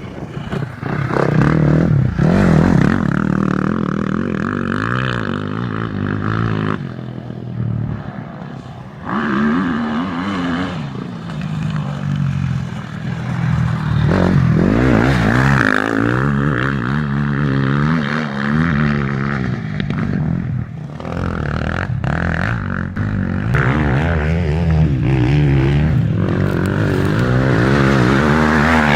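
Motocross motorcycle engines revving, rising and falling in pitch in repeated surges as the throttle is opened and eased off.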